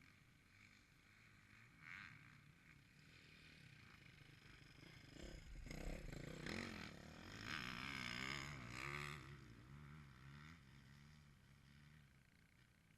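Motocross dirt bike engine passing at a distance: faint at first, growing louder, its pitch rising and falling as the throttle is worked, loudest in the middle, then fading away.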